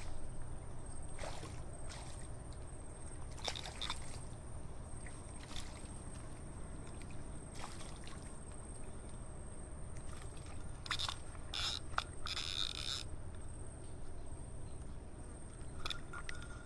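Water sloshing and splashing with scattered short clicks and rustles over a steady low rumble, as a fish just hit by a slingshot-rifle bolt is hauled in on its line; the busiest stretch of splashing comes near the end.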